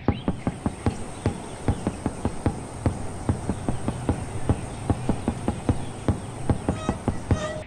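Insects, such as crickets or cicadas, trilling: a steady high-pitched buzz, with a fast run of sharp ticks, about four a second, over it.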